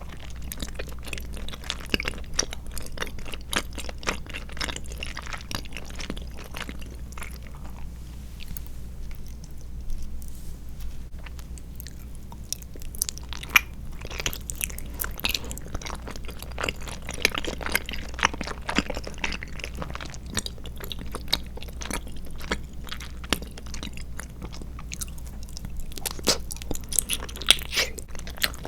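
Close-miked chewing of chewy tapioca pearls and jelly: a dense run of wet, clicky mouth sounds that eases off for a few seconds partway through, then picks up again.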